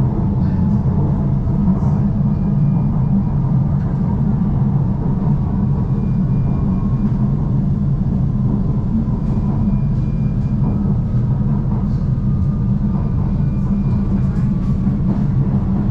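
Steady low hum and rumble inside a Shanghai Metro Line 2 train car standing at a station, with faint short high tones every few seconds.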